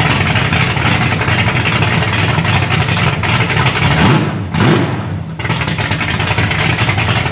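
Exhaust of a 1970 Buick Skylark's cammed big block V8 running, with a burst of throttle and a brief drop about four seconds in.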